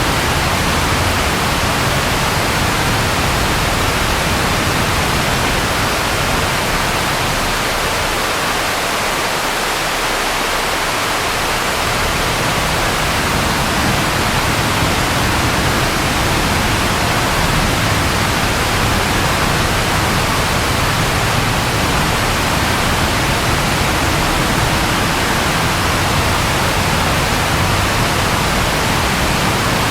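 Steady, even rain with a low rumble underneath that fades away about eight seconds in and builds back a few seconds later.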